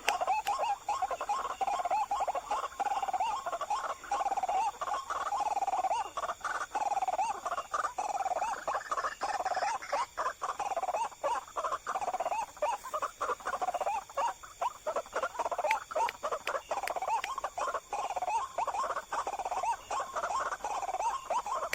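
White-breasted waterhen calls: a continuous run of quickly repeated, wavering notes, with scattered short clicks.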